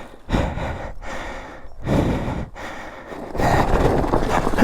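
A person breathing heavily, out of breath from exertion: three long, loud breaths about a second and a half apart, the last the loudest.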